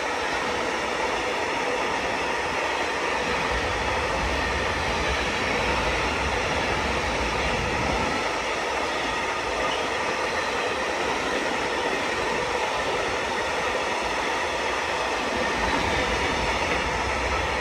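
A train running past on the rails, a loud, steady sound of wheels and rolling stock.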